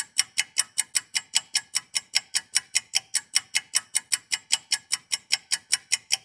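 Fast, even ticking: about five sharp, bright clicks a second, steady throughout.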